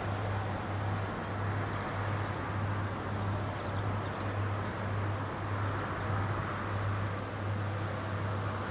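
Rice combine harvester running at work: a steady, slightly pulsing low engine drone under a broad mechanical hiss.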